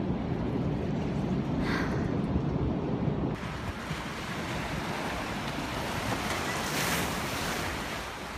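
Steady outdoor rushing noise with wind on the microphone; the sound changes abruptly about three seconds in, the low rumble dropping and a brighter hiss taking over.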